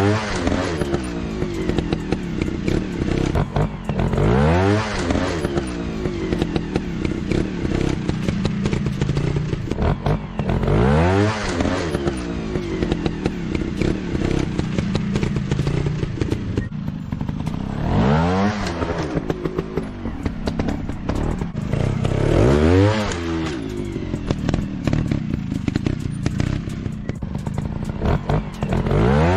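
Motorcycle engine running with a steady drone, revving up and back down about every six or seven seconds, with small clatters and scrapes throughout.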